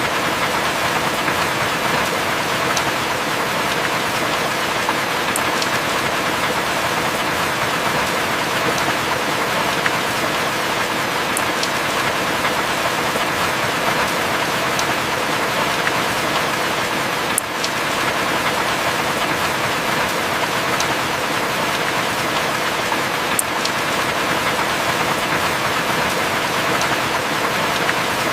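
Heavy rain falling steadily, an even hiss with a few sharp drip ticks scattered through it.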